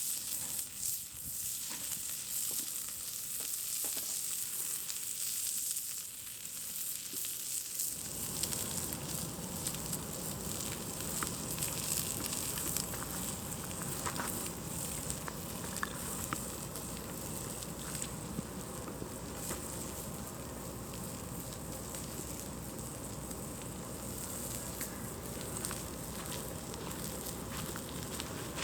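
Campfire burning with a steady hiss and scattered crackles and pops. About eight seconds in, the sound turns fuller, with more low rumble under the hiss.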